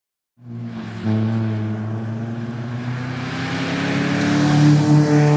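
Rally car engine under acceleration, its pitch climbing steadily and growing louder as it nears. It starts abruptly about half a second in.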